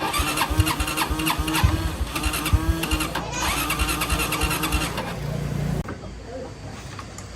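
Motorbike engine being cranked over, a quick even chugging of about four or five strokes a second that cuts off suddenly near the end.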